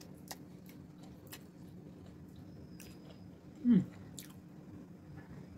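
Close-up chewing of a mouthful of pasta, with faint small clicks. A short falling "mm" of the voice a little past halfway is the loudest moment.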